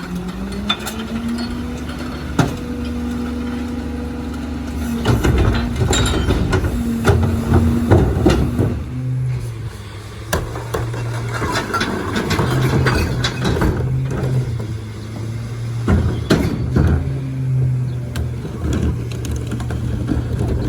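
Crane Carrier CNG rear-load recycle truck running with its steady hum, which drops to a lower note about halfway through, amid repeated knocks and clatter.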